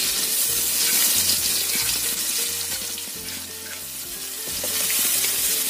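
Coarsely ground garlic and shallot paste sizzling in hot oil in an aluminium wok. The sizzle starts suddenly as the paste hits the oil, eases a little midway, then picks up again.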